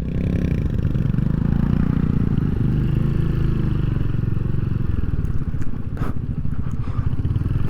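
Royal Enfield Hunter 350's single-cylinder engine running steadily while the bike is ridden, with a single knock about six seconds in.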